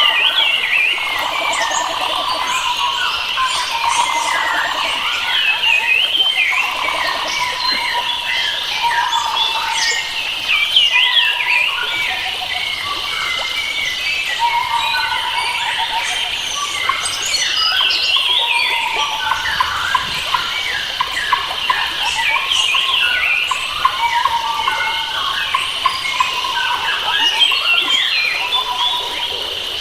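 Chorus of many wild forest birds calling and singing at once, with a constant stream of short chirps, trills and whistled notes over a steady high-pitched drone.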